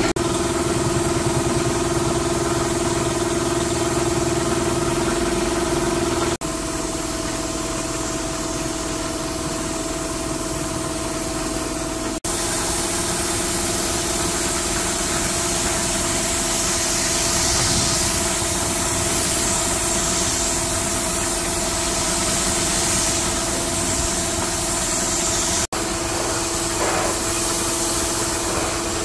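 The restored vintage car's engine idling steadily with an even hum, broken by three abrupt cuts where the sound jumps.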